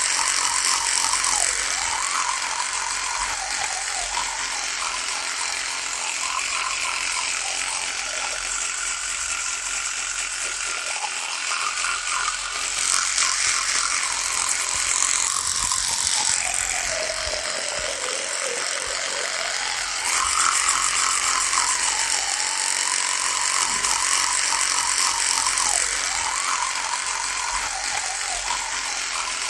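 Electric toothbrush running with a continuous buzz. Its pitch wavers, and it sags noticeably for a few seconds midway before coming back up.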